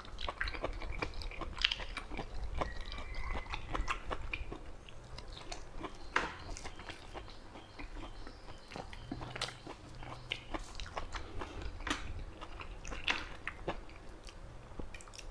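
A man chewing and eating eel curry close to a clip-on microphone: wet mouth smacks and many scattered sharp clicks of chewing and biting.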